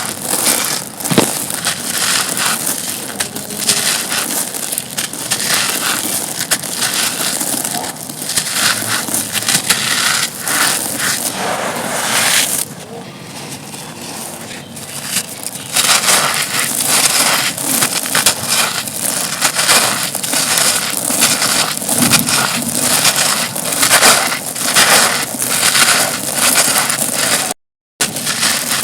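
Dry, dusty, stone-textured chunks being crushed and crumbled, a dense run of crunching and crackling. It turns softer for a few seconds about halfway through and drops out for a moment near the end.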